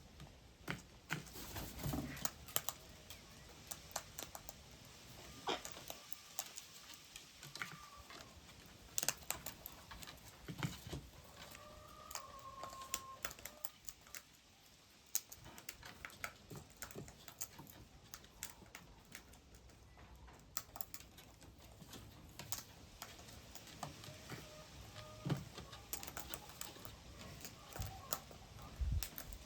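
Small birds feeding: irregular sharp taps and clicks, like beaks pecking on a hard surface, with a few faint short calls.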